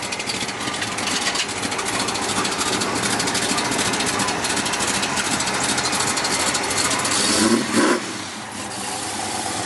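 Chevrolet Chevelle SS's V8 engine running at low speed with a fast, even exhaust pulse as the car creeps down off a trailer ramp, briefly louder about three-quarters of the way through.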